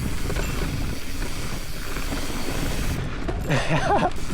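Mountain bike riding down a dirt singletrack: steady wind rush on the microphone with tyre and frame rattle. A short voice sound comes near the end.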